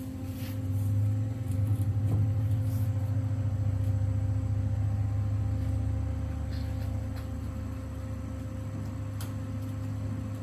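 A machine running with a steady low hum that swells about a second in and holds level.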